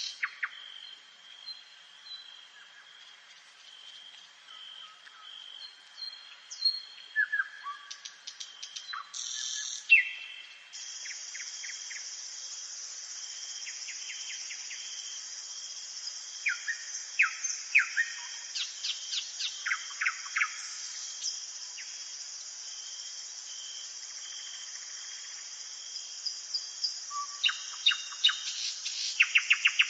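Dawn chorus of several songbirds in woodland: scattered chirps, downward-sweeping whistles and rapid trills. A steady high insect buzz sets in about a third of the way through and carries on under the birds.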